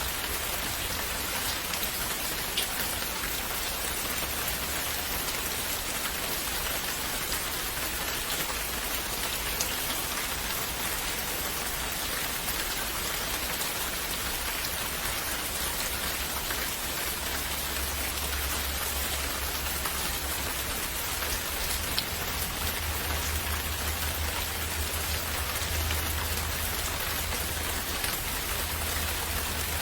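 Steady rain falling, an even hiss of drops on surfaces. A low rumble sits underneath from a little past halfway.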